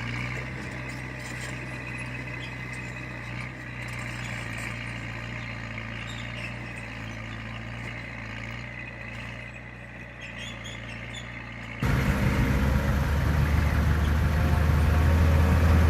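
Heavy diesel earthmoving machinery running steadily, with a deep engine drone. About twelve seconds in it switches abruptly to a much louder, closer engine sound.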